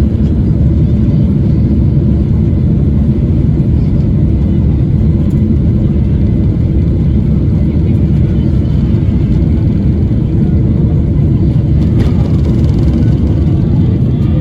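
Passenger aircraft heard from inside the cabin: a loud, steady low rumble of engines and airframe.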